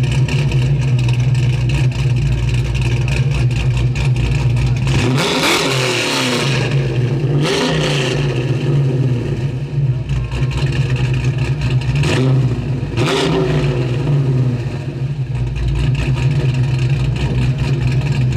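A car engine running steadily, with several short louder swells whose pitch sweeps, about five, eight, twelve and thirteen seconds in.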